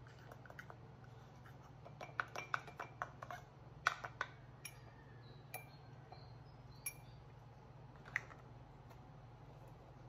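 Metal spoon clinking against the inside of a mug while stirring dry ingredients: a quick run of clinks about two seconds in, then a few single taps.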